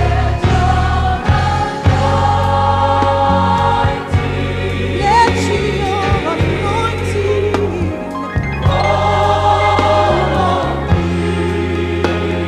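Gospel choir singing held chords with band accompaniment: a bass line underneath and light drums.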